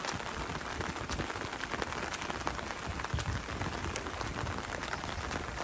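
Steady heavy rain, with many sharp drop hits ticking close by among the even hiss.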